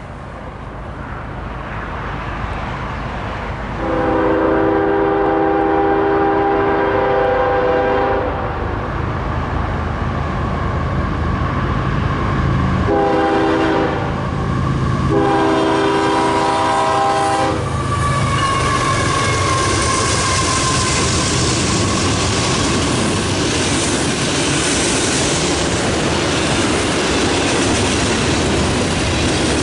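Freight train approaching and passing: the rumble grows, and the locomotive's horn sounds a chord in three blasts, a long one about four seconds in, then a short one and another long one in quick succession. Then the cars roll by with a loud, steady clatter of wheels on rail.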